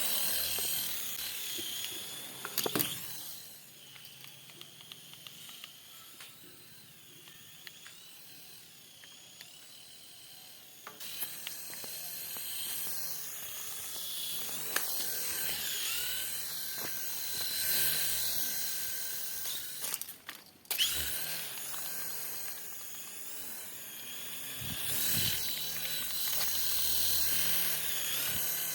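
Small electric toy motor whining at high pitch, its pitch rising and falling as the speed changes, with a few sharp clicks.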